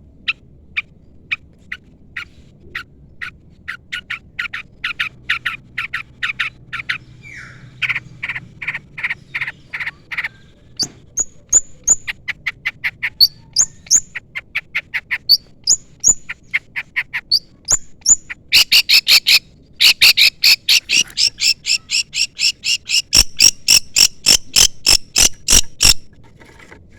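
Long-tailed shrike (cendet) calling: short, sharp chirps repeated a few times a second, some higher rising notes in the middle, then a loud, faster run of harsh notes in the last third. These are the chirping calls used to call out a rival shrike.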